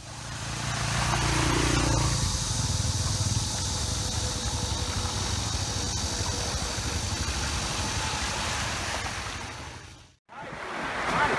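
Dirt bike engine running steadily under a hiss of wind and road noise. The sound fades out about ten seconds in.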